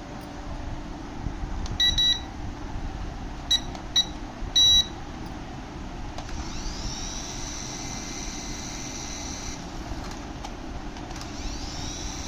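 Battery toy's electronic sound effects. A few short beeps, then a high electronic whine that rises in pitch and holds for about three seconds, starting again near the end, over a steady low motor rumble.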